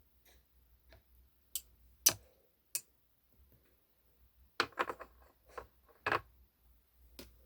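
Irregular sharp clicks and taps, a few single ones, then a quicker cluster a little past the middle.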